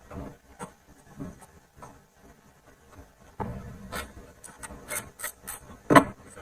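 Rubbing and scraping strokes, spaced apart at first and then quicker from about halfway, with one sharp knock near the end.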